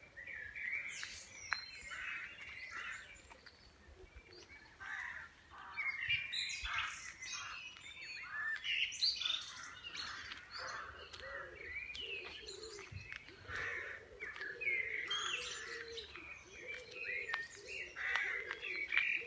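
Several birds singing and chirping at once, a busy mix of short high chirps and trills, with lower calls joining in during the second half.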